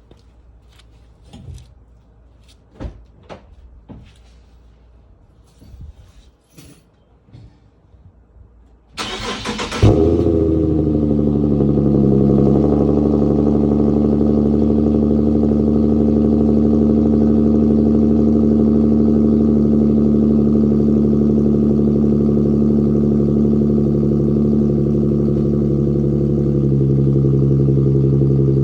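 A few faint clicks and knocks, then about nine seconds in the starter cranks briefly and the Infiniti Q50's 3.7-litre V6 catches with a loud flare. It settles into a steady cold-start idle, stepping down slightly a few seconds later, through the muffler-deleted exhaust.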